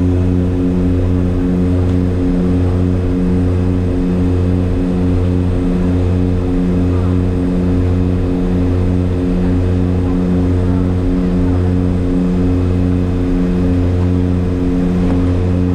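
Seaplane's propeller engine running at a steady drone, a low hum with even overtones that holds the same pitch throughout.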